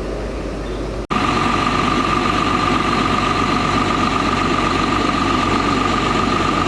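Fire apparatus engine running steadily with a constant high whine. About a second in, the sound drops out for an instant and comes back louder.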